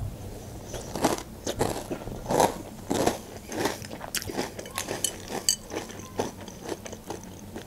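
Close-up chewing of a mouthful of Nesquik Duo chocolate cereal balls in milk: irregular crunches, several a second.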